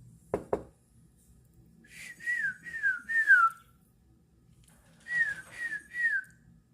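Two quick clicks, then a person whistling two runs of short falling notes, four and then three, in a bird-like call.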